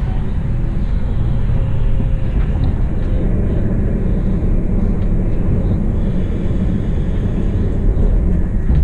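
Stadler Traverso (RABe 526) electric multiple unit running, heard from inside the carriage: a steady, loud low rumble of wheels on the rails.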